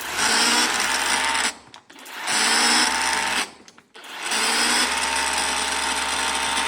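Battery-powered pressure washer run in three bursts, the last one several seconds long, its pump motor running with the hiss of the water jet. It is not quite doing it: the pump is not delivering full pressure, which the crew puts down to air in the line or silt from the recirculated water.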